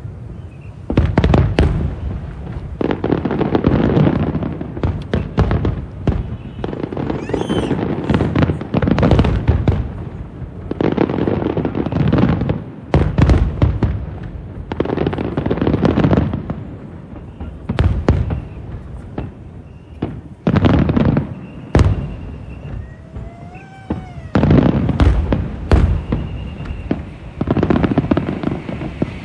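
Aerial fireworks bursting in quick succession: repeated booms with rumbling, crackling tails. A wavering whistle sounds briefly about three-quarters of the way through.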